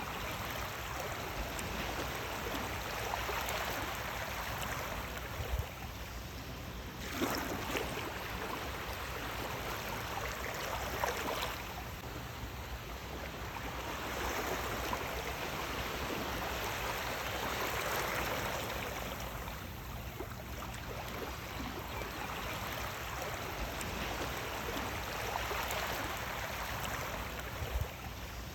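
Sea waves washing in and drawing back, a steady rush of water that swells and fades every few seconds, with sharper splashing surges about 7 and 11 seconds in.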